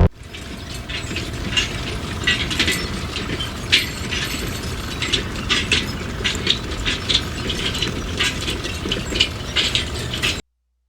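Small geared mechanism running, with a steady low hum under irregular clicking and ticking. It cuts off suddenly near the end.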